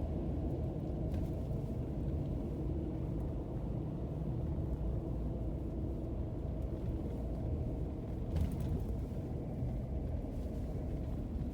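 Steady low rumble of a car driving on a snow-covered road, heard inside the cabin: engine and tyres on packed, slippery snow. A couple of faint clicks sound about a second in and again near the end.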